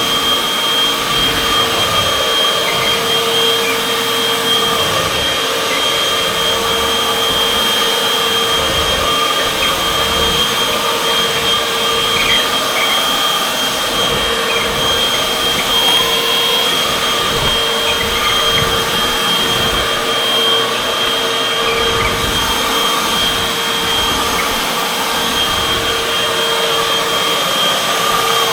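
Upright vacuum cleaner running steadily as it is pushed over a hard kitchen floor, a constant motor noise with a steady whine on top.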